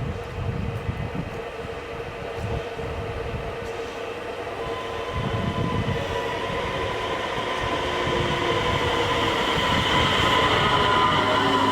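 Electric multiple unit, an X51 Regina-type train, running on the rails. It grows steadily louder, with several steady high tones over the rolling noise.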